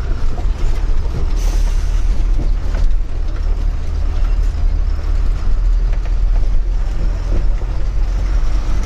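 Truck on the move, heard from the cab: a steady deep engine and road rumble with scattered knocks and rattles from the shaking body. A short hiss sounds about a second and a half in.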